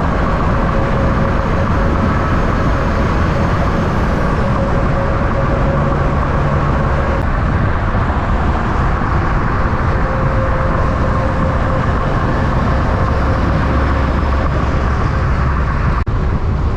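Semi truck diesel engine running, a loud steady rumble with a steady whine above it, dropping out for an instant near the end.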